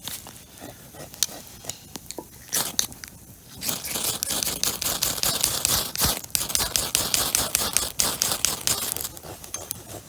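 Dry pine needles crackling as they catch fire: scattered pops at first, then from about four seconds in a dense hissing crackle that dies back about nine seconds in.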